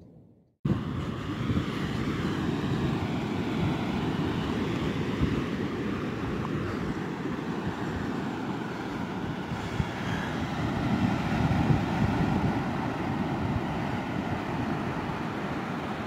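Steady rumble of wind and sea surf, with wind buffeting the microphone, starting abruptly about half a second in.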